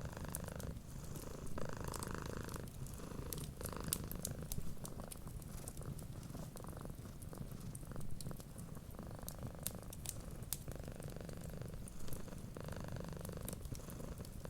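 Cat purring, a steady low rumble that swells and eases in a slow rhythm every second or two. Small scattered crackles from a wood fire run over it.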